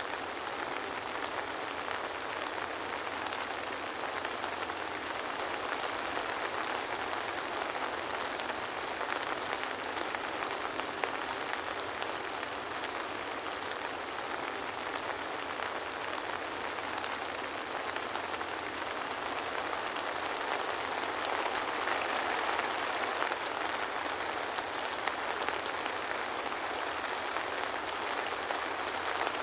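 Soft rain falling steadily: an even hiss with a fine patter of drops.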